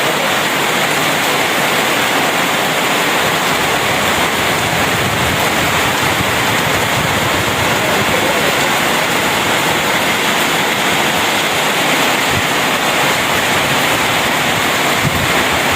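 Heavy rain falling: a loud, steady rushing hiss with no breaks.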